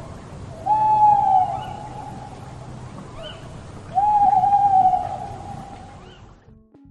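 Two long hooting calls about three seconds apart, each a single held note that slides slightly down and is led in by a softer, lower note. Faint short chirping calls and a low hum run behind.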